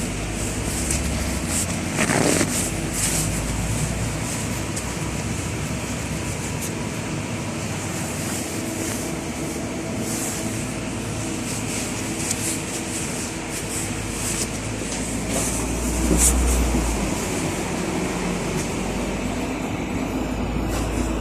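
Cabin noise of a LiAZ 6213.65 articulated city bus on the move: a steady engine and road rumble with interior rattles. It swells briefly about two seconds in and again around sixteen seconds.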